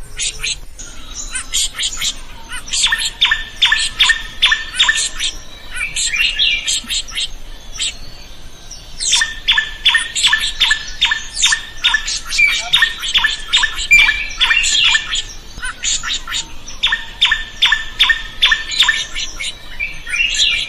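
Drongo singing in three bouts: quick runs of evenly repeated whistled notes, about four a second, mixed with harsh squawking calls, with short pauses between bouts.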